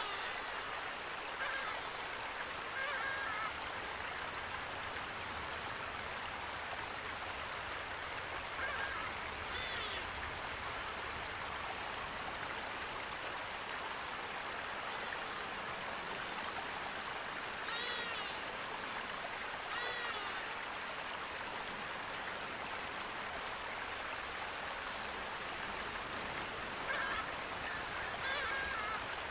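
Steady rushing water, with short bird calls breaking in every few seconds, several in quick pairs.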